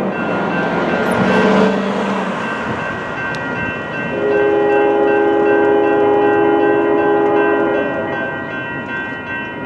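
Union Pacific freight locomotive's air horn sounding a long, steady blast of several notes from about four seconds in to about eight seconds, after a horn note that fades near the start. Grade-crossing warning bells ring steadily underneath.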